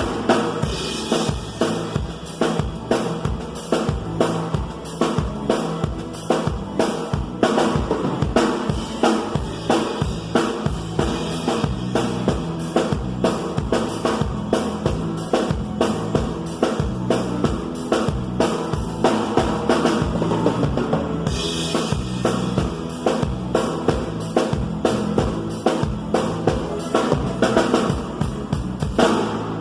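Live band music driven by a drum kit playing fast, dense strokes on kick and snare over a bass line, with cymbals washing in from about two thirds of the way through.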